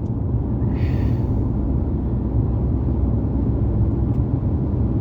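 Steady low rumble of a car driving, road and engine noise heard inside the cabin, with a brief hiss about a second in.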